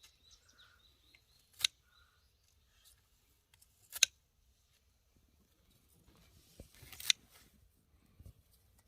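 Scissors snipping plant stems three times, sharp single cuts about 2.5 seconds apart, as young garden greens are harvested. Faint bird chirps are heard in the first two seconds.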